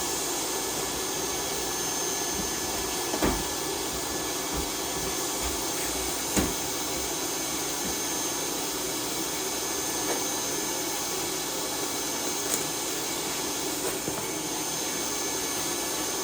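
Shop vacuum running steadily while soot and dust are cleaned out of an oil-fired boiler, with a couple of knocks from the nozzle against metal about three and six seconds in.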